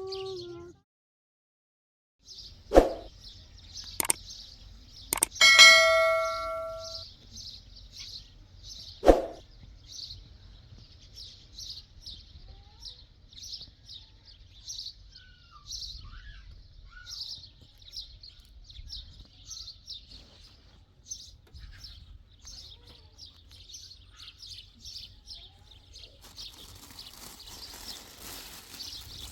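A few sharp knocks and a ringing ding that fades over about a second and a half, then small birds chirping steadily, several chirps a second.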